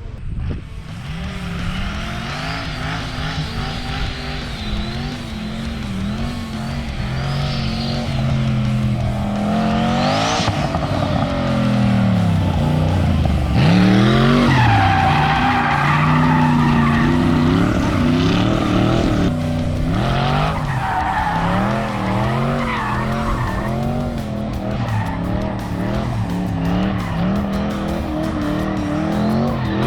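An LS V8-swapped BMW E36 being drifted: the V8 revs up and down again and again while the rear tyres squeal and skid.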